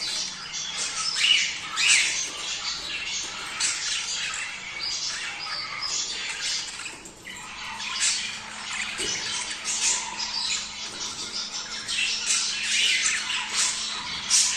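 A flock of budgerigars chattering, with dense overlapping chirps, warbles and squawks and a brief lull about halfway through; this is budgie breeding chatter.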